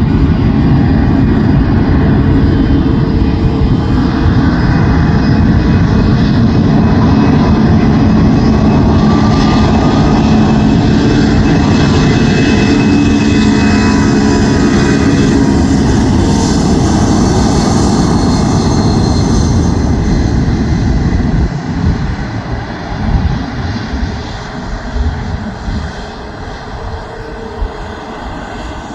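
Jet airliner taking off at full thrust, its engine noise loud and steady with faint slowly sliding tones, then falling away and turning uneven after about twenty seconds.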